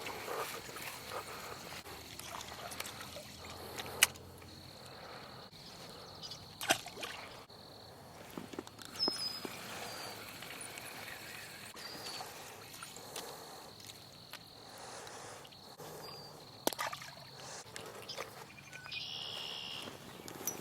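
Outdoor pond-side ambience: a steady high-pitched buzz that breaks off now and then, a few sharp clicks, and short high chirps.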